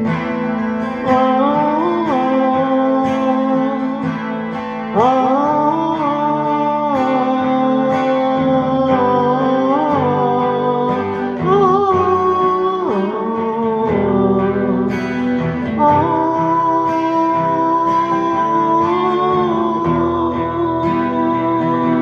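Guitar instrumental break in a Russian rock ballad: chords played on guitar under a melody line with bent notes. The music grows louder about five seconds in.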